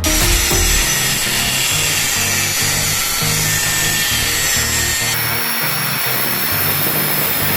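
A power tool runs with a dense, high-pitched hiss and whine that starts abruptly and shifts in tone about five seconds in, over background music.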